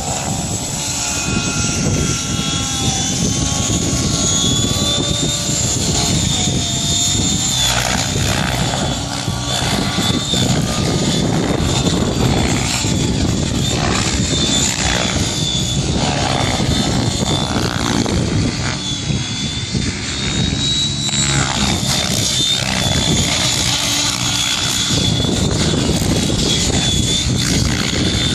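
Radio-controlled helicopter flying aerobatic tricks: a high-pitched whine from its motor and rotor that shifts slightly in pitch, over a steady rushing noise.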